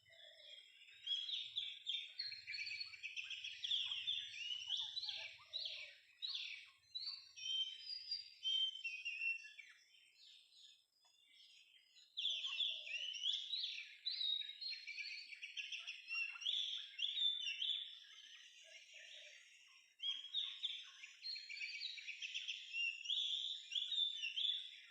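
Oriental magpie-robin singing a rapid, varied warbling song, in three long runs of phrases with short pauses between them.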